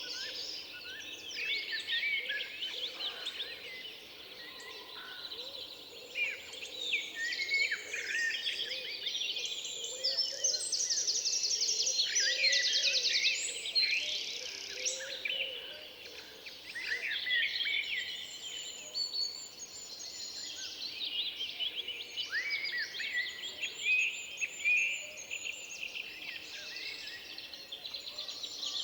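Many songbirds singing at once in a forest, overlapping chirps, whistled phrases and fast trills, busiest about a third of the way in.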